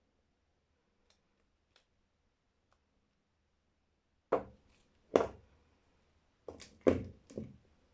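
Bars of soap being handled on a hard surface: a few faint ticks, then about six sharp knocks in close succession in the second half.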